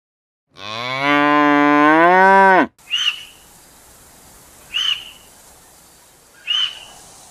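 A cow mooing once, one long call of about two seconds that rises and then drops in pitch at the end. Three short high chirps follow, about two seconds apart, over a faint hiss.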